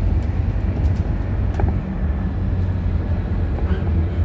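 Scania bus running on the road, heard from inside the cabin: a steady low engine drone with road noise and a few light rattles or clicks.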